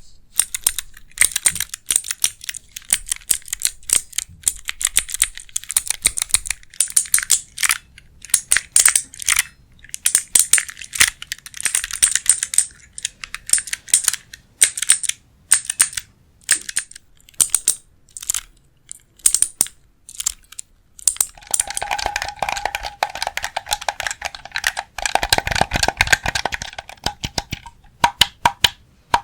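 ASMR tapping: quick flurries of fingernail taps and clicks on hard objects, broken by short pauses. About three-quarters of the way in, a ringing tone sounds under the taps for several seconds, with some heavier low thumps near its end.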